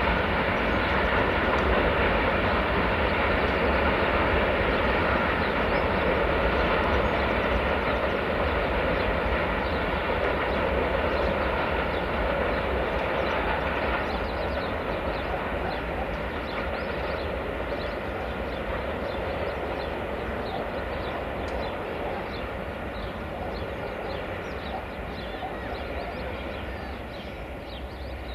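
Freight train of covered wagons rolling away on the track, its steady wheel and wagon noise fading slowly. Short high chirps join it from about halfway.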